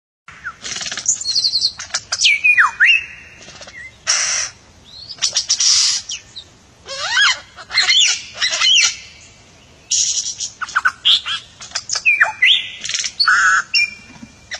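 A songbird singing a varied song in phrases a second or two long: harsh rasping notes mixed with clear whistles that sweep up and down in pitch, with short pauses between phrases.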